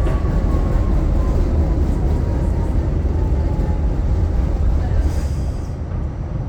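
Train running with a steady low rumble and a faint whine that falls slowly over the first few seconds. A short hiss comes about five seconds in.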